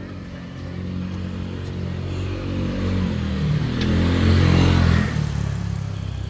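A motor vehicle passing close by: its engine grows louder toward a peak about four seconds in, then drops in pitch and fades as it goes past.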